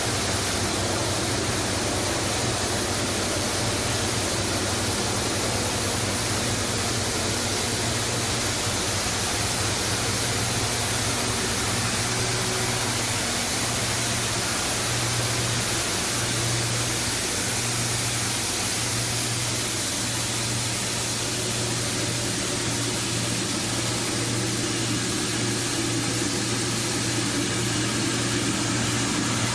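PE/PP plastic washing machine running steadily: a constant low motor hum under a rushing noise.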